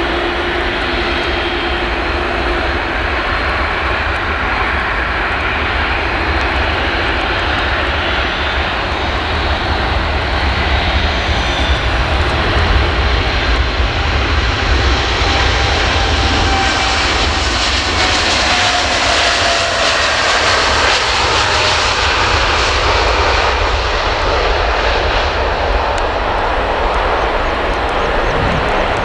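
Boeing 787-9 jet engines at takeoff power as the airliner departs: a loud, steady roar that swells toward the middle, with faint whining tones falling in pitch as it goes past.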